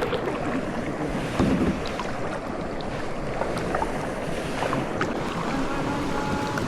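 Water splashing and lapping around a kayak on a river, with steady wind noise on the microphone.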